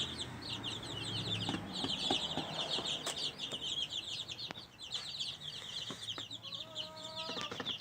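Many birds chirping together in a dense, continuous high-pitched chorus of rapid short chirps, with a few faint knocks and one short, lower call about seven seconds in.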